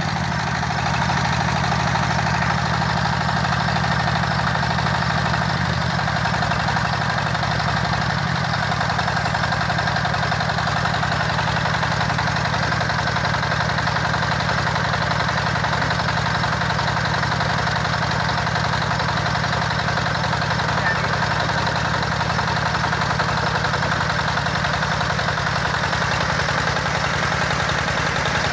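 Small gasoline engine of a mini water pump running steadily, with a slight shift in its note about six seconds in.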